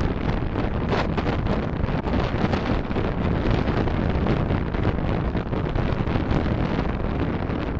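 Steady road and wind noise from a moving vehicle, picked up by a dashcam microphone: a constant low rumbling hiss.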